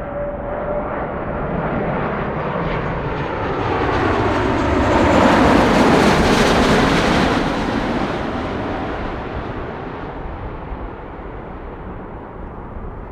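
Jet airliner passing close by on its landing approach. Its engine noise swells to a loud peak about five to seven seconds in, then fades away.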